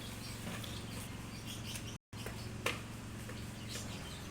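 Small birds chirping in short, scattered calls over a steady low hum, with a brief break in the sound about two seconds in and a sharp click soon after.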